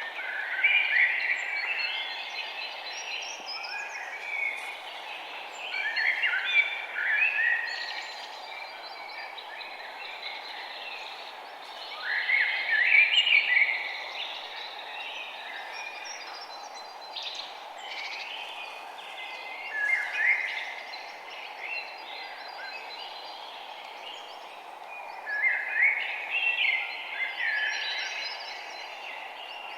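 Songbirds chirping and twittering in bursts of rapid notes every few seconds, over a steady background of outdoor noise.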